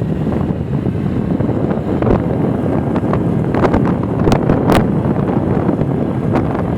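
Wind buffeting the microphone in a loud, uneven rumble, with a few faint clicks around the middle.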